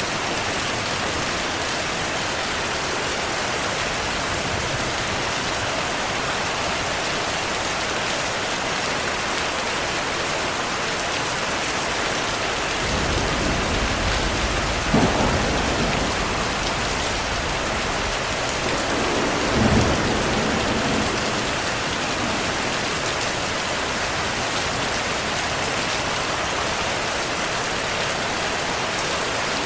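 Steady, heavy rainfall with thunder. A low rumble rolls in about halfway through, and two louder claps come a few seconds apart before it fades back to rain alone.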